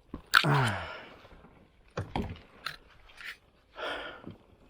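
A person's short vocal sound falling in pitch, like a groan or sigh, then a few scattered knocks and scrapes and a brief hiss near the end.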